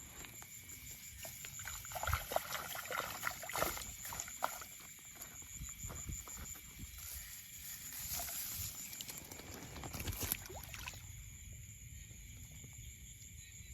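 Irregular footsteps, rustling and light splashing at the water's edge, over a steady high-pitched hum.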